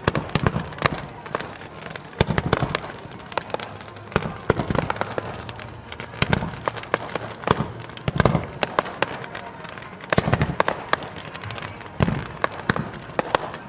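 Aerial fireworks bursting in quick succession: a deep boom about every two seconds, with many sharp cracks and pops between.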